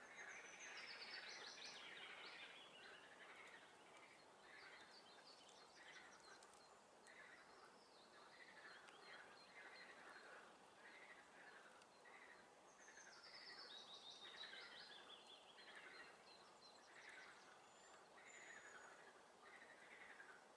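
Faint spring swamp chorus: frogs calling over and over, with songbirds singing. A high songbird phrase falls in pitch near the start, and again about 13 seconds in.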